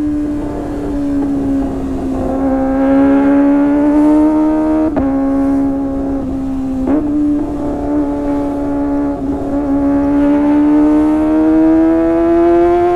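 Kawasaki ZX25R's 250 cc inline-four engine running at high revs through a Sportisi Motorsport SRX aftermarket exhaust, a steady high-pitched wail that dips slightly and then climbs in pitch near the end. Two brief sharp clicks sound about five and seven seconds in.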